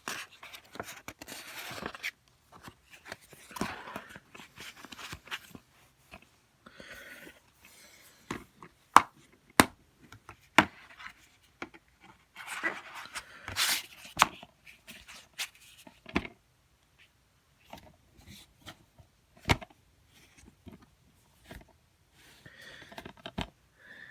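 Plastic DVD cases being handled: rustling and scraping, with several sharp clicks of the cases.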